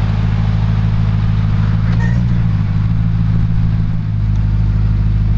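A Jeep's engine running at a steady pitch while driving the trail, with a brief dip in level about four seconds in.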